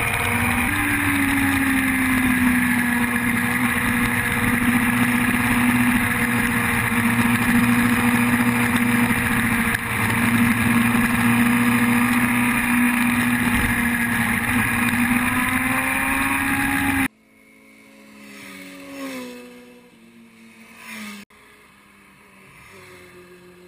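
Yamaha R1's inline-four engine running at steady high revs, its pitch wavering only slightly, over a steady rushing noise. About 17 seconds in it cuts off suddenly to a much fainter stretch where motorcycle engine notes glide down and back up.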